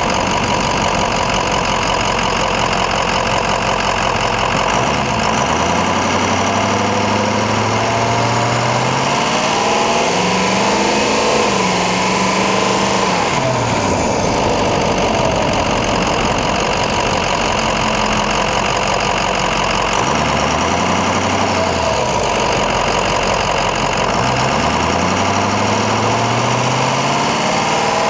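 Stock 6.0L Powerstroke V8 turbo diesel of a 2006 Ford F-250, heard from under the hood while driving. It runs steadily at first, then its pitch climbs as it pulls, drops back, and climbs again twice near the end.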